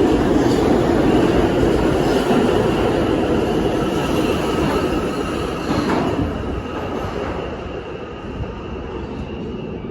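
New York City R subway train running on the track, heard from inside the car: a loud steady rumble with a thin high whine, getting quieter over the second half as the train eases off.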